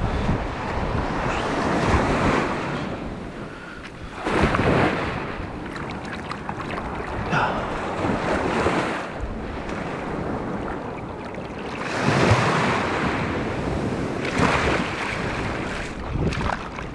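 Sea waves breaking on the beach, the surf swelling and falling back several times, with wind buffeting the microphone.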